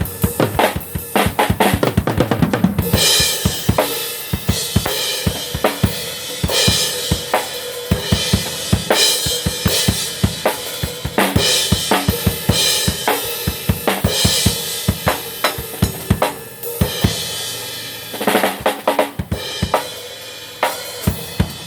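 Drum kit being played: a fast, steady beat of kick and snare with cymbal crashes every two seconds or so, and drum fills near the start and again about eighteen seconds in.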